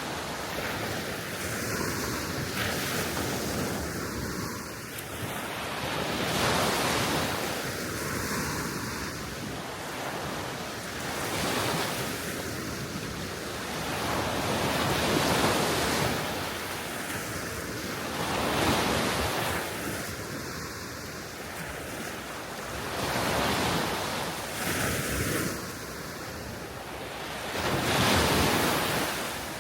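Small waves of the Baltic Sea washing onto the shore, swelling and falling back every few seconds, with wind rushing over the microphone.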